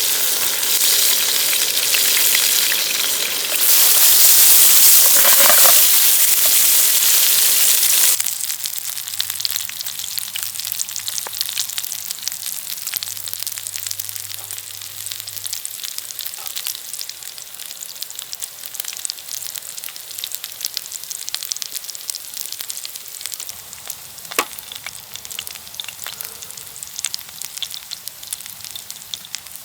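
Food sizzling in a frying pan: a loud, steady hiss for about eight seconds that drops suddenly to a quieter, finely crackling sizzle with scattered pops.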